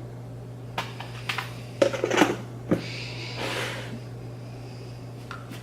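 A plastic tub of sour candies being handled: a cluster of sharp clicks and crinkly rustles, then a softer rustle, over a steady low hum.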